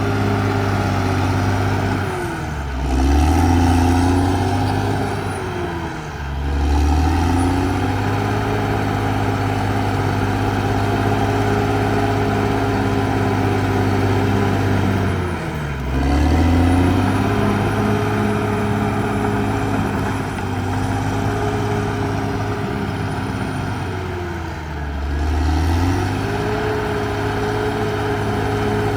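Caterpillar D6R XL bulldozer's diesel engine running steadily. Four times its pitch sags and then climbs back, as the engine lugs down under load and recovers.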